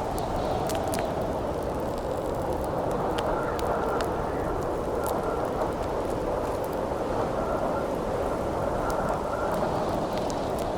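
Howling wind, a steady rushing whose pitch slowly wavers, with a wood campfire crackling through it in scattered sharp pops.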